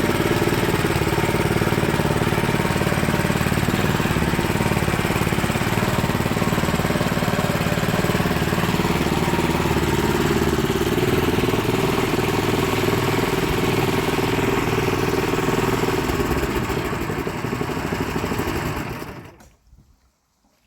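Small engine running steadily, then shut off about nineteen seconds in, dying away within a second.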